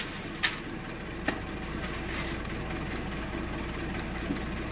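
2013 Ford Fiesta engine idling steadily, heard from inside the cabin, with two light clicks in the first second and a half.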